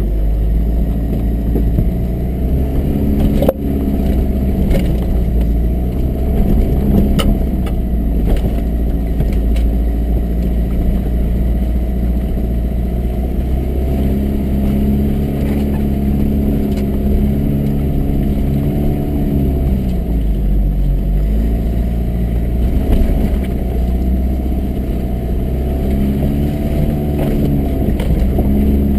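Toyota Hilux 4x4 engine running at low revs while crawling over rough ground, the engine note rising and falling slowly. A heavy low rumble sits underneath, with occasional knocks and clatter as the truck jolts over ruts.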